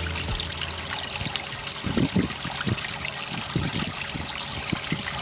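Water trickling and splashing steadily from a small cement terraced waterfall into a garden fish tank.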